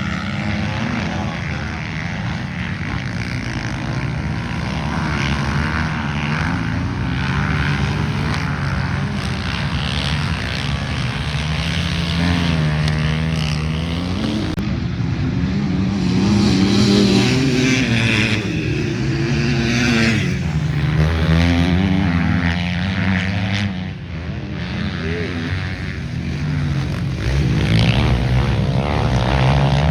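Several motocross dirt bikes riding around the track in practice, their engines revving up and down through the gears, several engine notes overlapping and swelling louder as bikes pass, about halfway through and again near the end.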